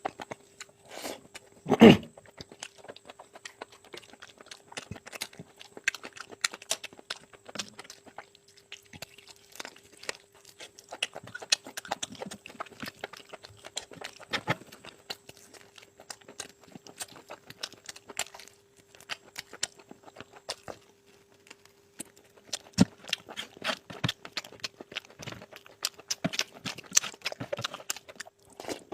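Close-miked eating of curry and rice: a steady stream of short wet chewing smacks and small crunches, with one louder burst about two seconds in.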